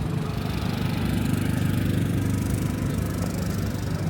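An engine running steadily with an even low hum, growing a little louder around the middle.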